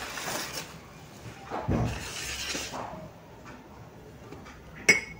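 Metal ladle stirring and scraping onions and ginger-garlic paste frying in a pressure cooker, with a sizzle over the first few seconds that then dies down. A single sharp knock near the end.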